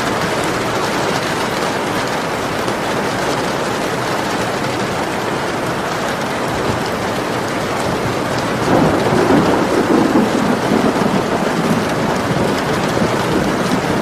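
Steady rain falling, with a roll of thunder that swells about two-thirds of the way in and rumbles on for a few seconds.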